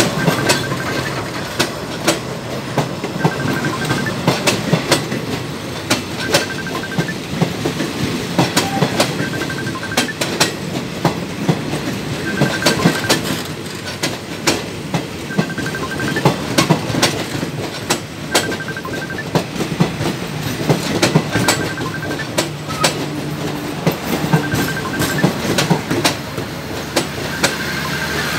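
Passenger coaches of a train rolling past close by, their wheels clacking over the rail joints in a steady run of repeated clicks over a continuous rumble.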